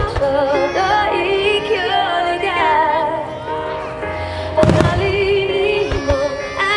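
A song with a female vocal plays for a music-synchronised firework show, with firework shells bursting over it. One shell bursts right at the start, a loud burst comes about two-thirds of the way through, and a couple of smaller bangs follow soon after.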